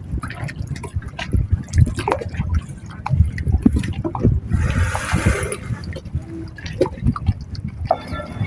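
Choppy seawater sloshing and splashing, with a louder hissing splash about halfway through.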